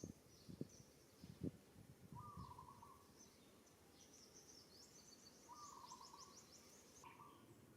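Faint bird calls: high chirps and trills, with a lower warbling call repeated three times. A few soft thumps in the first couple of seconds.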